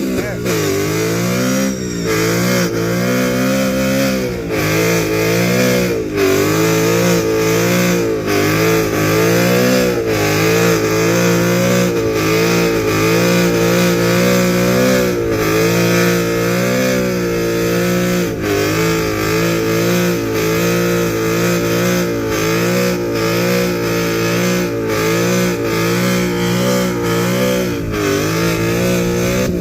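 Engine held at high revs through a burnout, its pitch dipping and rising every second or two as the throttle is worked, over a constant hiss. It drops off near the end.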